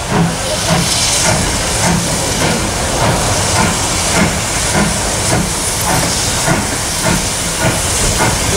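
Steam tank engine 'Thomas' working, its exhaust chuffing at about two beats a second over a steady loud hiss of steam.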